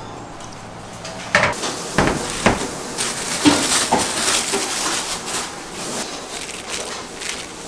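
Kitchen utensils and dishes clattering: a run of knocks and clinks beginning about a second and a half in, with a rustling hiss between them.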